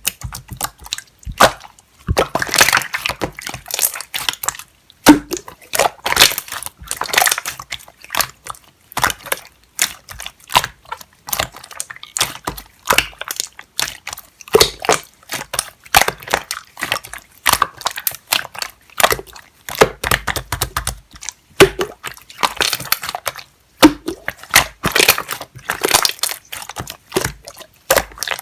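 Jelly-textured slime being squeezed, pressed and stretched by hand, giving a dense, irregular stream of wet, sticky clicks and small pops.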